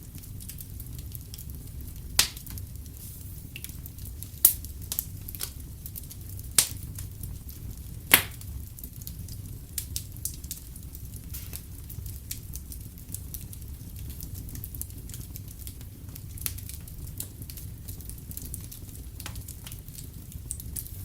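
Wood fire crackling in a fireplace over a steady low rumble, with a few sharp pops about every two seconds early on, the loudest about eight seconds in, then smaller crackles.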